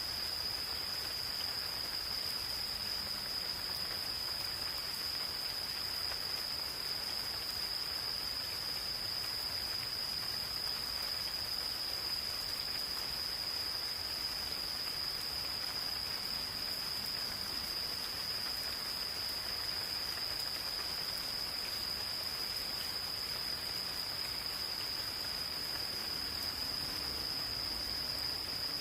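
Insects calling in one continuous high-pitched trill that never breaks, over the soft, even patter of gentle rain in a forest.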